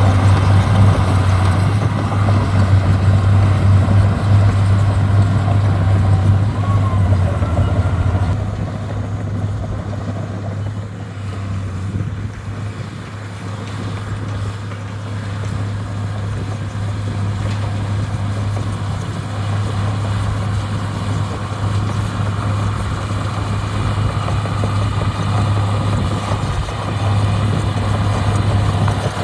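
Heavy diesel earthmoving equipment running with a steady low engine hum, loud for the first several seconds, easing off for a while past the middle, then building up again.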